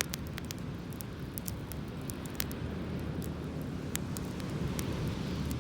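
Driftwood campfire crackling, with sharp pops at irregular intervals, over a steady low rumble.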